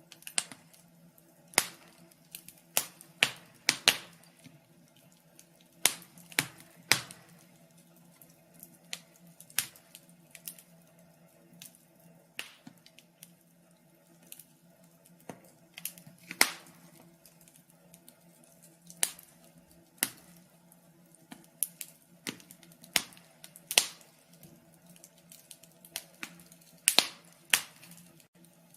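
Wood fire in a fireplace crackling, with irregular sharp pops and snaps, some loud, over a faint steady hum.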